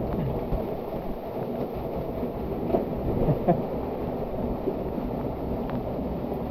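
Steady rush of fast-flowing canyon water, with a couple of brief knocks about three seconds in.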